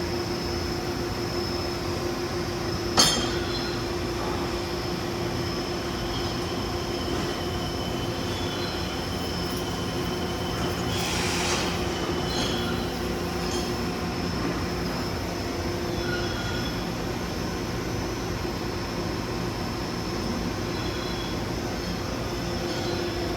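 Okuma MC-V4020 CNC vertical machining center running under power: a steady mechanical hum with a constant high whine. A sharp click comes about three seconds in and a brief hiss near the middle.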